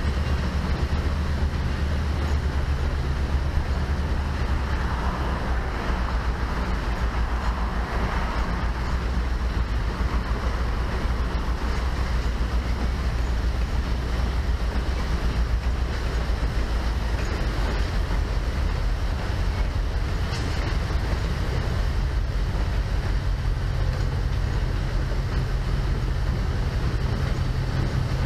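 Train cars rolling across an iron truss bridge: a steady low rumble of wheels on the rails, mixed with the rush of a shallow river running over rocks below.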